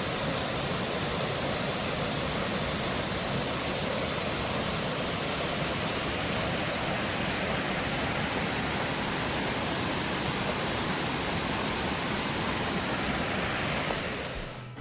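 Creek water pouring over a small waterfall among boulders: a steady, even rush of falling water.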